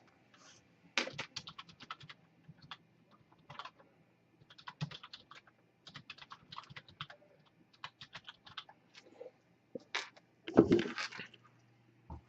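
Typing on a computer keyboard: irregular runs of key clicks, with one louder clatter about ten and a half seconds in.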